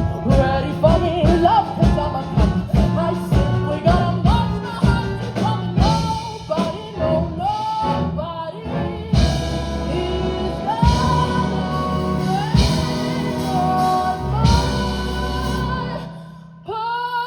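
Female vocalist singing with a symphony orchestra in a swing arrangement. Quick rhythmic phrases give way to long held notes, and near the end a brief dip is followed by a new sustained chord.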